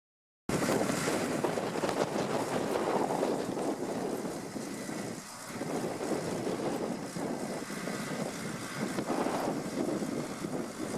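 John Deere 2030 tractor running steadily, with wind buffeting the microphone; the sound dips briefly about halfway through.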